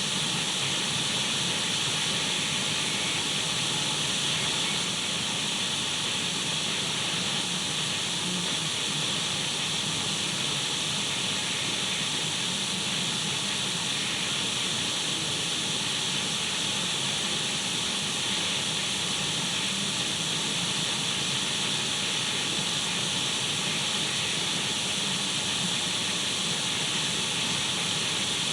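Radio static: a steady, unchanging hiss of an untuned radio, brightest in the upper range, with a faint low hum beneath.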